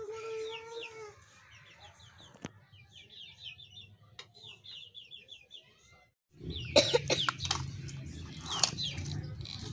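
Bird calls: a held call, then a run of short high falling peeps at about three a second. About six seconds in, a louder outdoor background with a low rumble and a steady high whine takes over.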